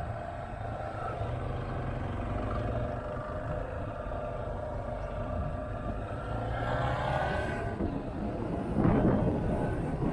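Motorcycle engine running steadily while riding, with wind rushing over the microphone in surges in the last couple of seconds.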